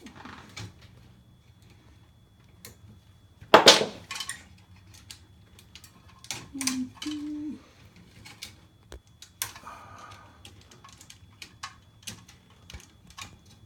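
Small clicks and taps of tools and hardware being handled while wiring a boiler relay, with one louder clatter about three and a half seconds in.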